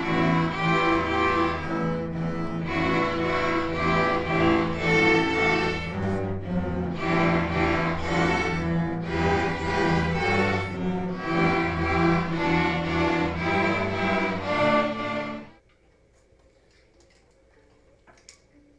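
String orchestra of violins, cellos and basses playing a bowed passage with moving melody over a sustained low line. It stops abruptly about fifteen seconds in, leaving near silence with a faint hum.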